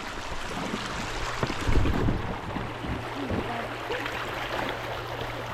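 River water washing around an inflatable kayak drifting downstream, with wind noise on the microphone. There is a brief low buffeting about two seconds in.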